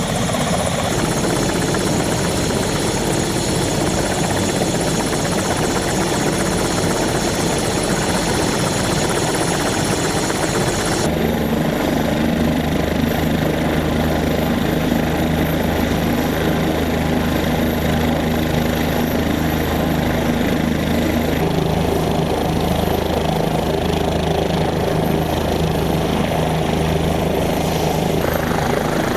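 Kiowa Warrior helicopter running steadily, its rotor and turbine giving a constant loud drone. About eleven seconds in the sound changes abruptly to a steadier, lower hum with clear held tones.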